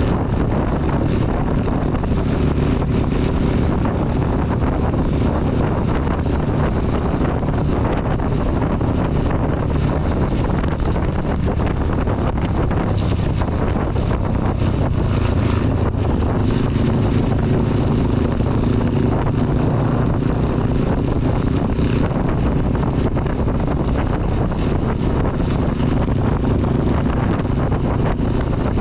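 CB 250 motorcycle engine running steadily while riding, mixed with wind and heavy rain noise on the camera microphone.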